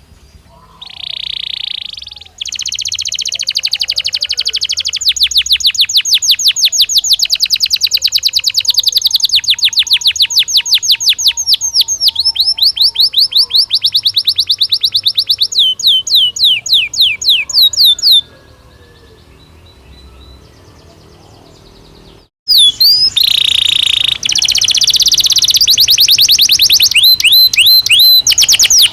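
Belgian canary singing: a long song of fast trills, rapidly repeated notes that change in pace and pitch from one run to the next. It breaks off about 18 seconds in, and the song starts again loudly after a pause of about four seconds.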